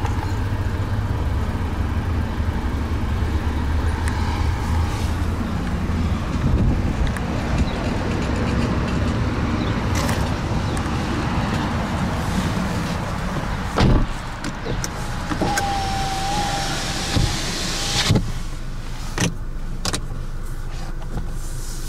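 The Skoda Octavia's 1.4 TSI petrol engine idling with a steady low rumble. A car door shuts about 14 seconds in, after which it is quieter, followed by a short tone and a few clicks.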